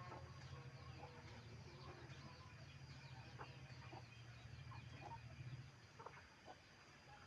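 Faint clucking of chickens, with short scattered calls, over a low steady hum that stops near the end.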